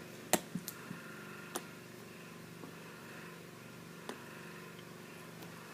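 A few light clicks and taps of plastic ink cartridges being handled and stacked, the loudest about a third of a second in, over a faint steady hum.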